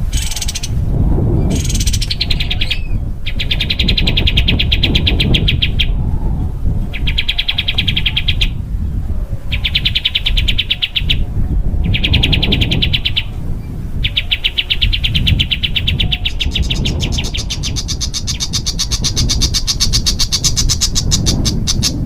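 A small songbird singing very fast, dense trills of the shot-like 'tembakan' type, in bouts of about two seconds with short pauses. In the last third it changes to a longer, higher-pitched trill. A steady low rumble runs underneath.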